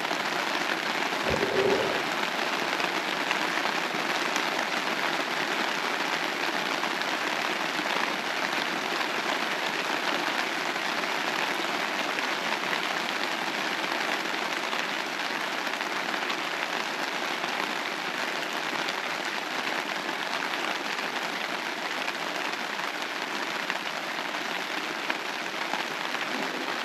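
Steady rain falling, an even hiss of drops on the surfaces around the camp.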